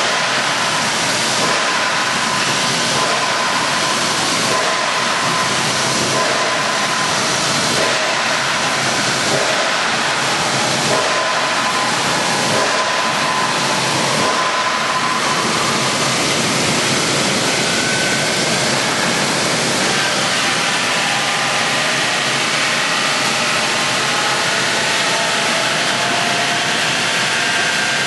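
Wood hammer mill (sawdust machine) running: a loud, steady rushing noise with a faint whine in the middle of the pitch range.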